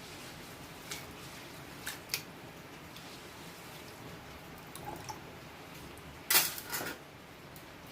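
Scattered light clicks and clinks of kitchen handling, with a louder short clatter about six seconds in, over a faint steady hiss.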